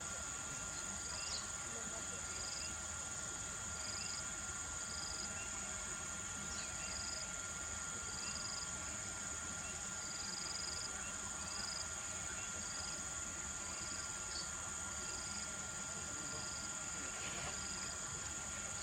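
Insects calling outdoors: a steady high-pitched buzzing drone, with short chirps repeating roughly once a second over it.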